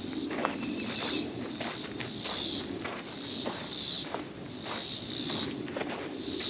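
An insect calling in a steady rhythm of high, hissy buzzes, each about half a second long and coming about once a second. Faint footsteps on the trail sound beneath it.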